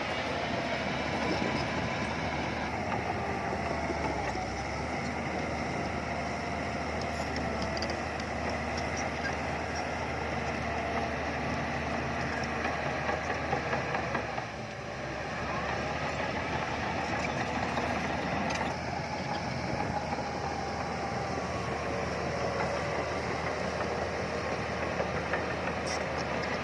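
Heavy diesel earthmoving machinery running steadily under work, its engine pitch wavering, with a brief drop in level about halfway through.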